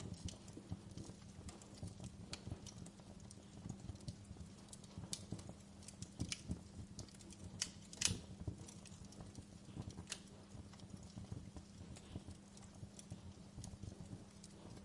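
Wood fire crackling: irregular sharp pops and snaps over a low rumble and a steady low hum, with the loudest pop about eight seconds in.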